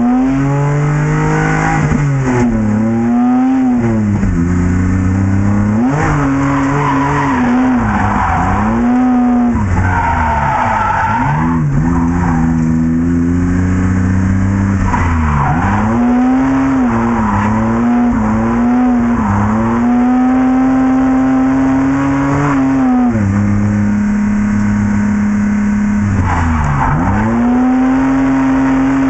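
BMW E30 drift car's engine revving hard, its pitch climbing, holding high and dropping again many times, with the tyres squealing in bursts as the car slides sideways.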